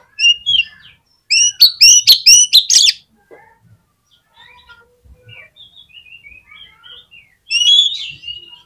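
Oriental magpie-robin (kacer) singing: a loud run of rapid, repeated rising whistles in the first half, then a quieter string of falling notes, and another loud phrase near the end.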